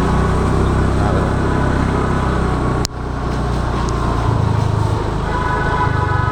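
Small scooter engine running steadily while riding, with road and traffic noise around it. There is a sharp click with a brief dropout about three seconds in.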